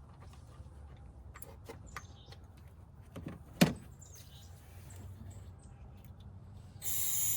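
Aerosol can spraying in a loud hiss near the end, with a brief break. Before it there is one sharp click about halfway through.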